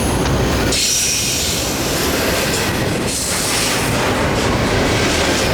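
CSX freight train rolling past, a loud steady rumble and roar of wheels on rail, with a faint high squeal about a second in.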